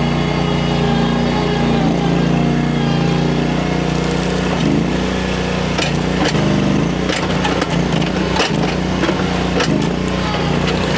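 Work machine engine running steadily, with crunching and rattling of asphalt millings starting about four seconds in and continuing to the end.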